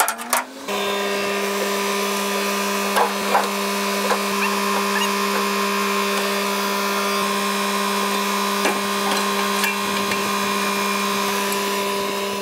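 Chainsaw running at full throttle, bucking a log into firewood lengths, holding one steady high pitch. It starts abruptly about a second in.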